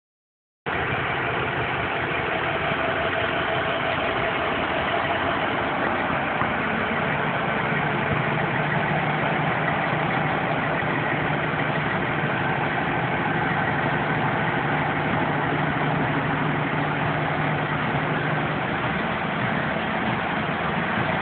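Heavy rescue truck's engine idling steadily, a constant low running sound with a faint steady hum.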